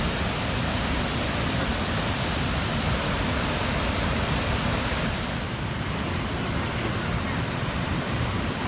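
Ban Gioc Waterfall roaring as a steady, loud rush of falling water. The highest hiss fades about five and a half seconds in.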